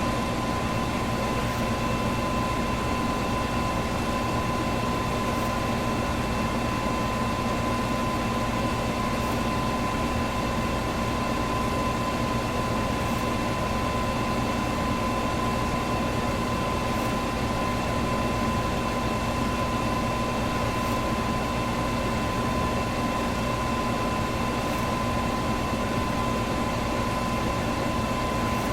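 Electric fan running steadily: an even rush of moving air with a constant whine and a low motor hum.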